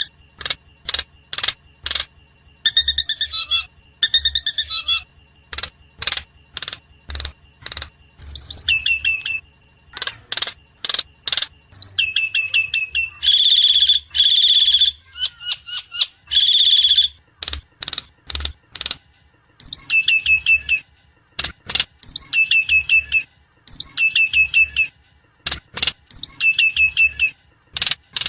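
Javan myna (jalak kebo) calling: runs of short, harsh repeated notes, two to three a second, alternating with longer chattering phrases of whistled notes that bend in pitch. A faint steady high tone lies underneath much of it.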